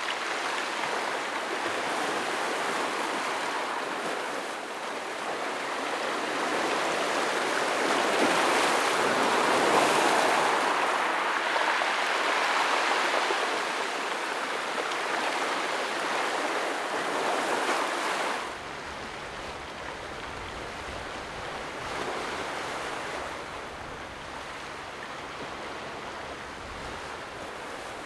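Ocean waves breaking and washing over rocks, swelling louder midway. About two-thirds through, the sound changes abruptly to a quieter, duller wash with a low rumble underneath.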